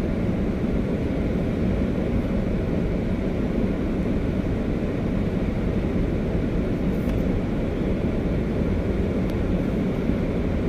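Steady low rumble of road and engine noise inside the cabin of a car being driven.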